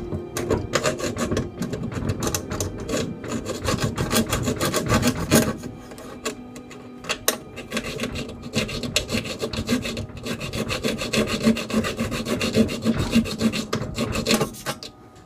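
A hacksaw blade rasping back and forth in quick, even strokes as it cuts a screwdriver slot into the head of a stripped Allen head bolt. The strokes are louder for the first five seconds or so, then go on more lightly.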